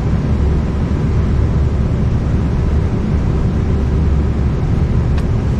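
Steady low rumbling background noise, with one faint click about five seconds in.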